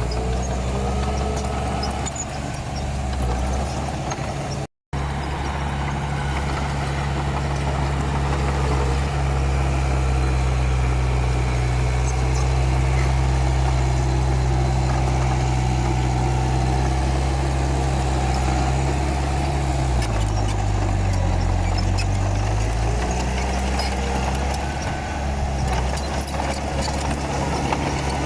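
Komatsu D31P crawler bulldozer's diesel engine running steadily under work. It cuts out completely for a split second about five seconds in, and about twenty seconds in the engine note drops in pitch for a couple of seconds before climbing back.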